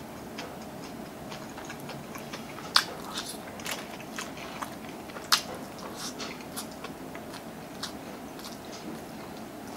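Close-miked chewing of siomai and garlic fried rice: small wet mouth clicks and smacks, with two sharper clicks about three and five seconds in.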